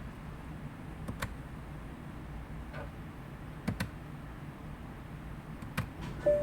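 About six sharp clicks at irregular intervals over a low steady hum, two of them close together near the middle. A steady chime tone starts right at the end.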